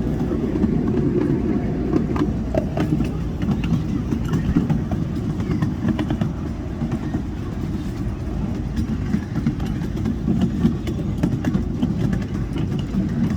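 Miniature railway train running along the track: a steady low rumble with frequent sharp clicks of the wheels over the rail joints.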